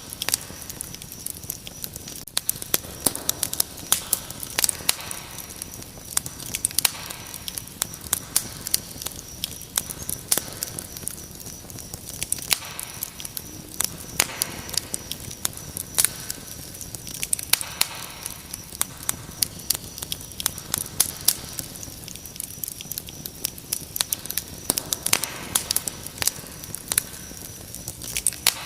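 Wood fire crackling, with dense irregular pops and snaps, over a steady high-pitched cricket trill.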